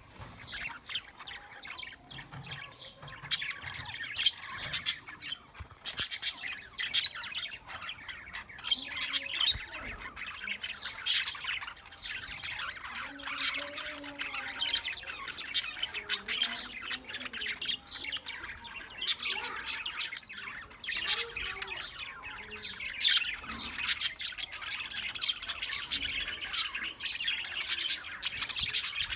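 A flock of caged loft birds chirping and squawking without pause, many short calls overlapping.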